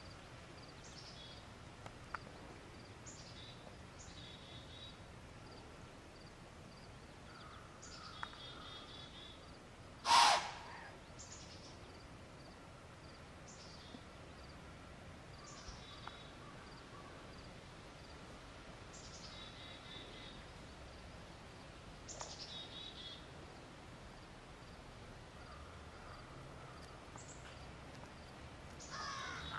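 A small songbird singing over quiet outdoor background noise, repeating the same short phrase every couple of seconds: a high falling note, then a buzzy trill. About ten seconds in there is one brief, much louder sharp sound.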